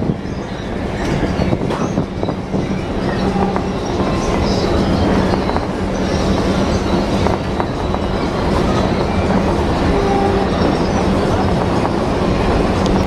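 Philippine National Railways train running on the tracks: dense, continuous rail noise over a steady low hum, with occasional short knocks.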